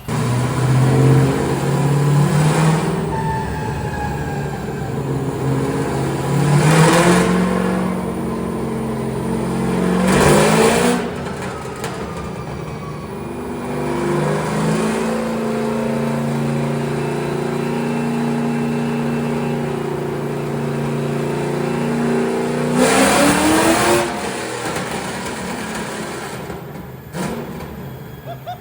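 Drift car's engine under load, revving up sharply three times in quick succession, then running at a steady pitch before a last climb that is cut off about 24 seconds in, after which it settles back down.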